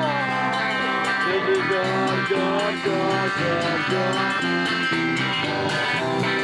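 Live rock band playing an instrumental passage: loud electric guitar with lines that bend in pitch, over bass and drums with cymbals.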